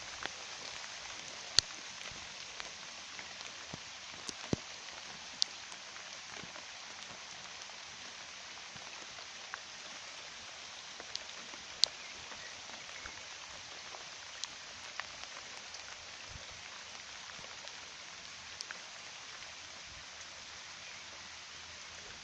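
Rain falling steadily on a garden pond and its surroundings: an even patter of drops on the water, with now and then a single loud drop standing out, the loudest a little over a second in and about twelve seconds in.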